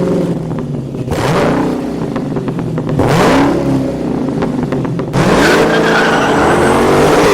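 High-powered car engines revving hard in three surges, each climbing and falling back in pitch, over a dense rush of noise; the sound cuts off abruptly at the end.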